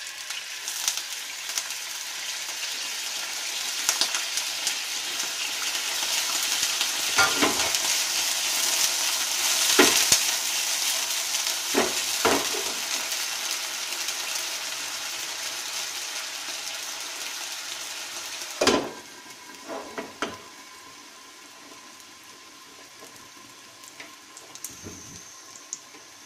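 Potato fries sizzling as they go into hot oil in a pan, the hiss building as more are added, with a few knocks of utensils on the pan. About two-thirds of the way in a pan lid goes on with a knock, and the frying drops to a quieter, muffled hiss.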